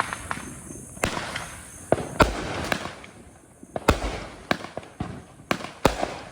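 Sky King Seminoles 200-gram consumer fireworks cake firing shot after shot. Sharp reports come roughly every half second to a second, each trailing off briefly.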